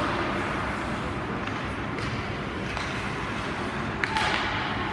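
Ice hockey play on a rink: a steady arena noise bed with light clicks of sticks and puck. About four seconds in there is a sharp hit of the puck or a stick, followed by a brief scrape of skates on ice.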